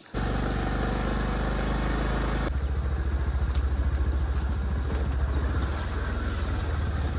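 Motorcycle engine running steadily; about two and a half seconds in its note steps slightly higher and turns rougher.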